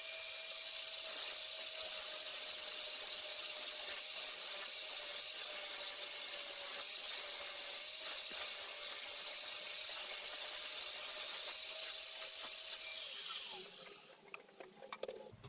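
Angle grinder with a flap disc grinding a small steel plate thinner: a steady whine over a high grinding hiss. It stops about 14 seconds in and the disc spins down.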